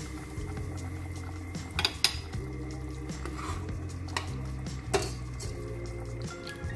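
Sharp clinks of kitchen utensils against a stainless steel soup pot and bowls, a pair about two seconds in and more around four to five seconds, over steady background music.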